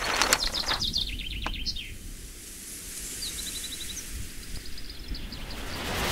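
Birds chirping: a quick falling trill of high notes, then shorter runs of clipped chirps, over a low outdoor background hiss that swells near the end.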